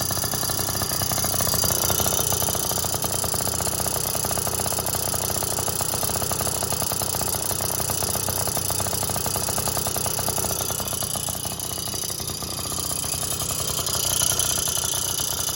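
Yamaha QT50 moped's 49cc two-stroke single running at idle with a loud, rapid rattling piston chatter, the sign of an out-of-spec, worn cylinder. The running sags slightly past the middle and picks up again near the end.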